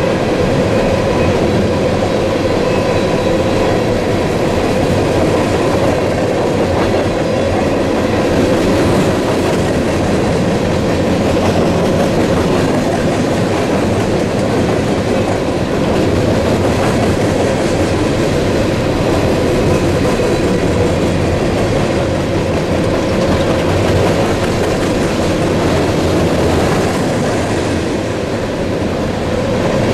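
A long freight train of open-top hopper cars passing close by: a steady rumble and clatter of steel wheels on the rails.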